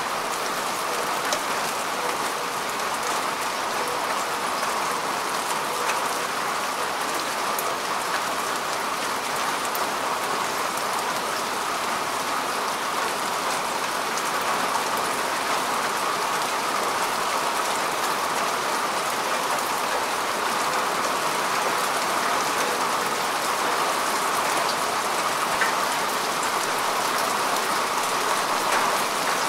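Steady rain falling on grass and earth: an even hiss with scattered drop ticks.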